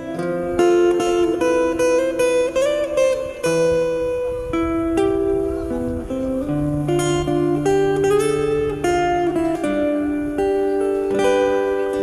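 Alto C ocarina playing a held, sliding melody over strummed and plucked acoustic guitar accompaniment, an ocarina-and-guitar duet.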